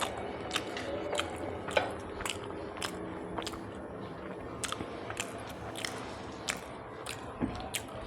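Close-up mouth sounds of a person chewing food: wet smacking clicks about twice a second, with a short pause midway.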